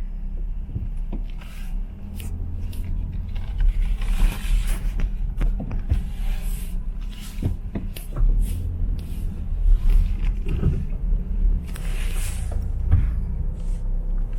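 Car driving slowly, heard from inside the cabin: a steady low engine and road rumble with scattered knocks and rattles.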